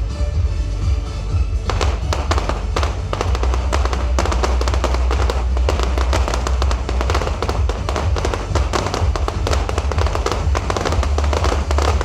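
Fireworks going off in rapid succession, a dense run of bangs and crackles that starts about two seconds in, over loud music with a heavy bass.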